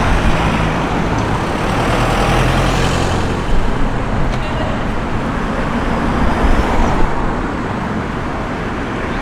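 Street traffic: motor vehicles passing with a low engine hum and road noise, the engine strongest in the first three seconds and easing after.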